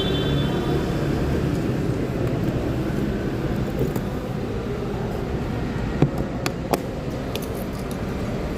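Honda Click 125i scooter riding along, its engine note mixed with steady road and wind noise, with a couple of sharp clicks about six seconds in.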